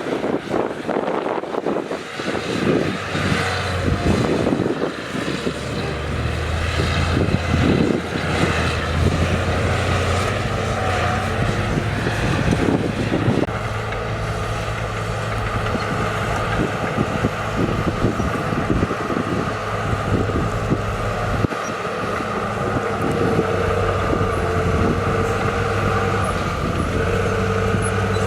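Heavy diesel construction machinery running steadily at a land-fill site, with repeated knocks and clanks through the first half.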